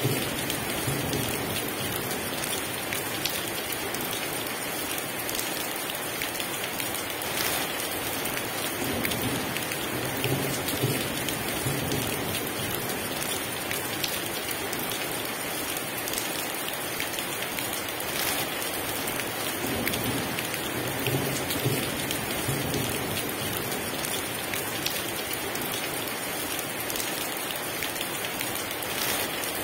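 Heavy rain falling in a steady, dense downpour, with low rumbles of thunder now and then.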